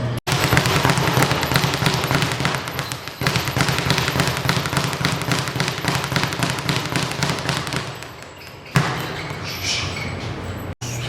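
Rapid, rhythmic thuds of punches on boxing training equipment, a fast steady run of hits that stops about 8 seconds in, followed by a single sharper hit.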